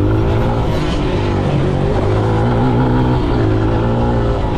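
Kawasaki KLX140G dirt bike's single-cylinder four-stroke engine running under riding load, its pitch rising and dipping several times as the throttle opens and closes.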